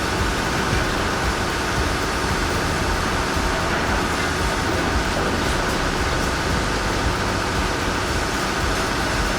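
A heavy vehicle on the move: a steady, loud rumble with a dense mechanical noise that does not change. It cuts off just after the end.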